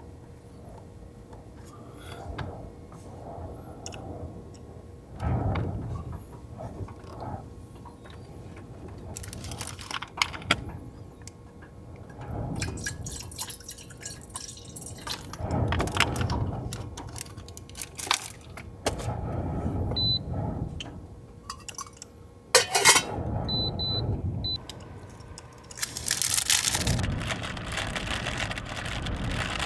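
Gusts of strong wind buffeting a parked car, heard from inside the cabin as swelling low rushes every few seconds, with small clicks and rattles of things being handled and one sharp knock about two-thirds of the way through.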